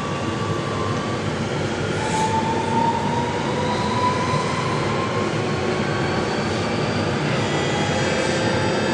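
SMRT metro train running, with steady rolling noise and a faint electric motor whine rising slowly in pitch as the train picks up speed.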